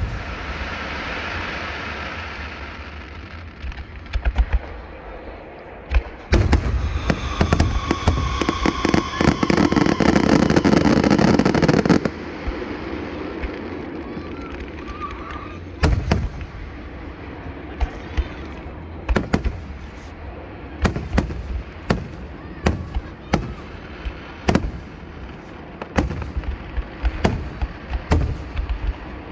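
Fireworks going off: a hissing, fading rush at the start, then a dense volley of rapid crackling bangs for about six seconds, followed by scattered single booms and pops.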